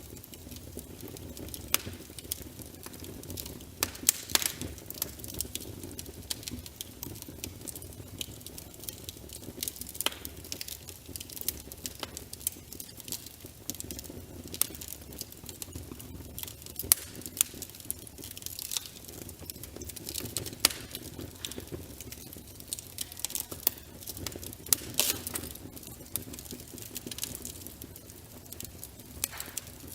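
Wood fire crackling, with irregular sharp pops and snaps over a low, steady rumble of flames.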